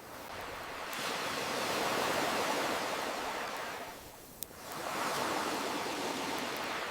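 Ocean waves washing in and drawing back, swelling twice, with one sharp campfire crackle about four seconds in.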